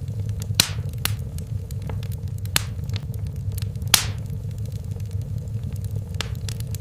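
Wood fire in a fireplace crackling: about half a dozen sharp pops and snaps a second or two apart, the loudest about half a second in and about four seconds in, over a steady low rumble of the flames.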